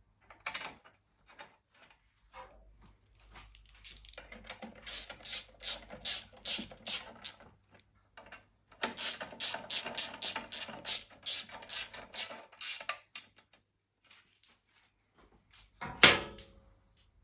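Two runs of rapid mechanical ratcheting clicks, each several seconds long, from hand work on a lawn mower, then a single loud knock near the end.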